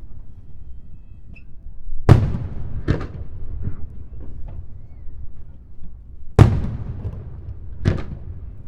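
Aerial firework shells bursting: two loud booms about four seconds apart, each followed within a second or so by a smaller bang, with lighter pops in between.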